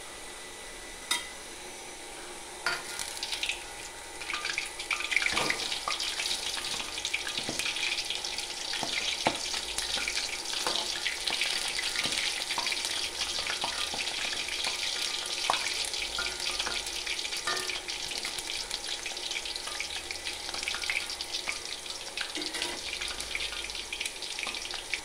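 Batter-coated pieces of purple sweet potato deep-frying in hot oil in a wok, with a steady sizzle full of small crackles. The sizzle grows louder about three seconds in. Scattered clicks and scrapes come from a slotted spatula turning the pieces.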